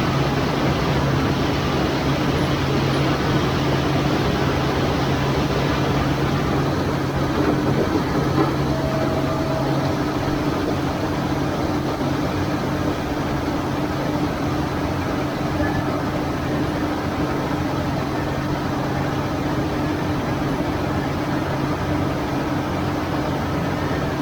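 A farm machine's engine running steadily at an even speed, with a constant low hum.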